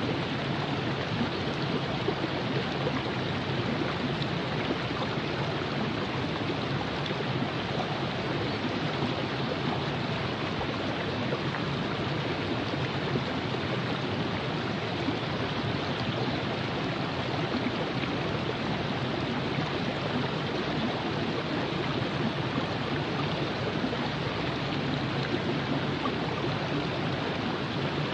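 Steady rush and babble of the Virgin River flowing over rocks, even and unbroken.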